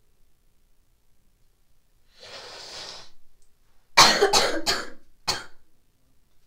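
A person coughing because she is sick: a drawn breath about two seconds in, then a quick run of harsh coughs and one last cough just after.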